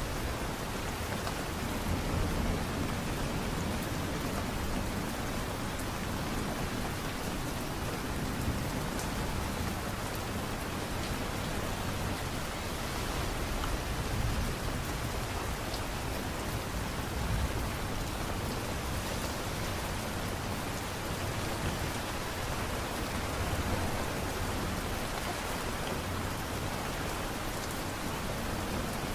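Steady light rain falling, an even hiss of drops with a soft low rumble underneath that swells now and then.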